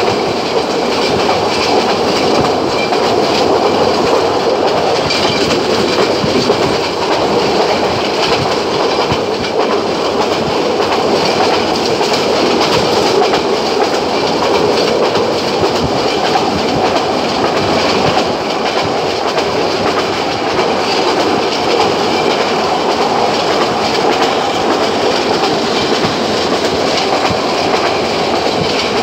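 Passenger train running steadily at speed: a constant rumbling rush of wheels on rails, with frequent short clicks as the wheels pass over the rail joints.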